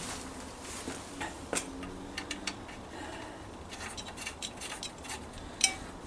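Scattered light clicks and small metallic taps from hand-handling metal parts and tools on a small stationary engine. The loudest tap comes near the end. The engine is not running.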